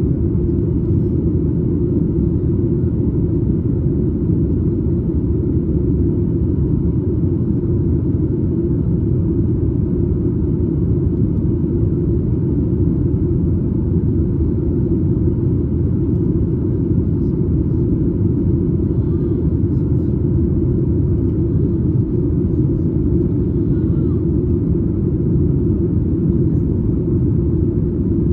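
Steady, low in-flight cabin noise of a Boeing 737 MAX 8, the airflow and engine noise heard from a window seat just behind the wing.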